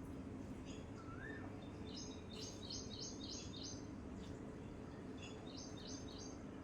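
Wild songbirds calling: a single rising-then-falling whistle about a second in, then a quick run of about five high chirps, and near the end a shorter run of three or four. Steady low background noise runs underneath.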